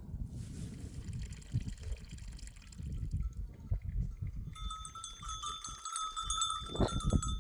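Bells on a herd of goats and sheep clinking and ringing, joined by a steadier ringing about two thirds of the way in, over a continuous low rumble.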